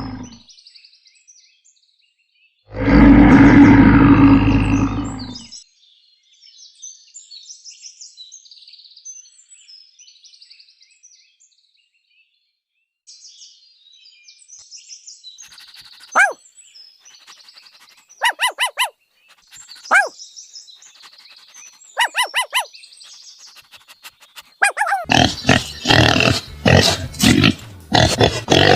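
A run of different animal calls. A loud roar starts about three seconds in and lasts nearly three seconds. Faint chirping follows, then several short, sharp calls, and a loud, dense stretch of calls near the end.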